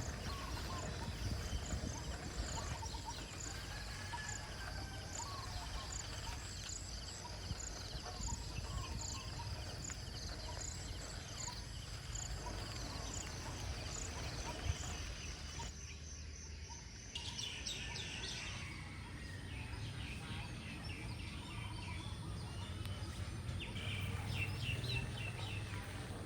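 Village countryside ambience with small birds calling over a steady low background noise. A single high call repeats at an even pace for the first half. After an abrupt change about two-thirds of the way in, quicker, varied chirps take over.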